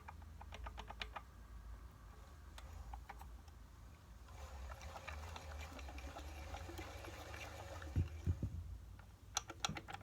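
Small metal parts of a two-stroke generator engine being handled on the bench: light clicks and taps about half a second in and again near the end, a soft rustling in between, and two dull thumps just before the end.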